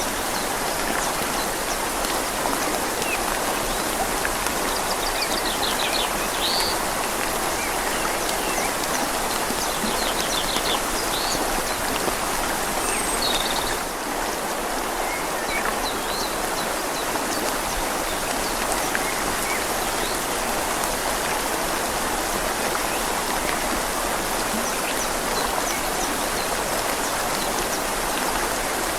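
Steady rain falling on leaves over a gently flowing river, a constant even hiss of water. A few short, faint bird chirps come through in the first half.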